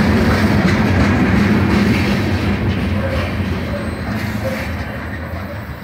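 Freight train's covered hopper cars rolling past close by: a steady rumble and clatter of steel wheels on rail that fades over the last couple of seconds as the last cars go by.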